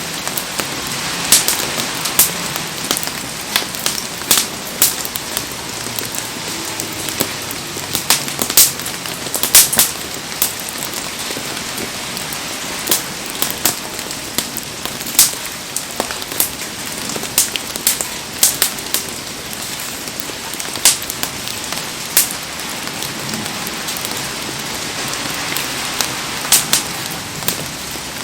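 Heavy rain falls in a steady hiss, while a wood bonfire crackles and pops sharply and irregularly through it.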